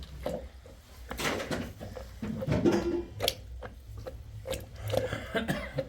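Irregular knocks, clicks and rustling of objects being handled, over a steady low hum.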